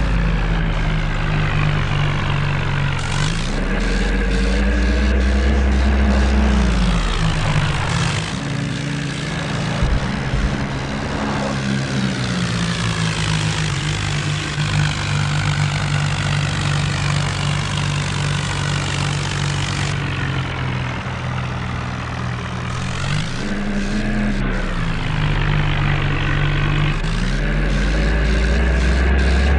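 Tractor diesel engines running hard, their engine note dipping and then climbing back up twice, as if under changing load.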